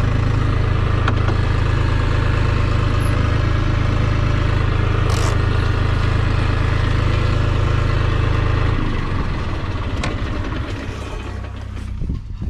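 Case C60 tractor engine running steadily under load, then easing off about nine seconds in to a quieter, lower running, with a few sharp knocks near the end.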